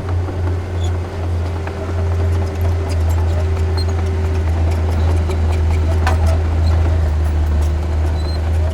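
Heavy diesel construction machinery running steadily, a deep engine rumble with scattered clanks and knocks from tracks and rock.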